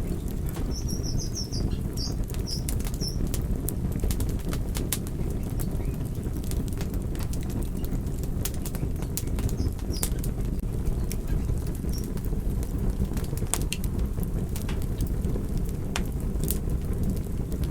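Wood fire burning with a steady low rumble and frequent sharp crackles and pops. A few short high squeaks come in during the first few seconds.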